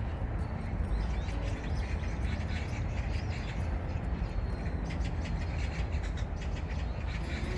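Small birds chirping repeatedly, more busily in the second half, over a steady low rumble.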